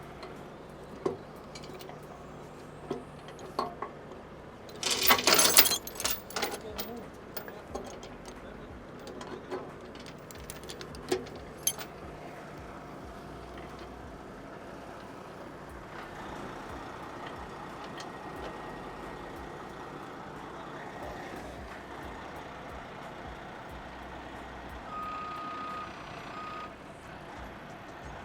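Rotator tow truck's diesel engine running steadily, with a burst of metal clanking about five seconds in and scattered clinks after it. A short high tone sounds near the end.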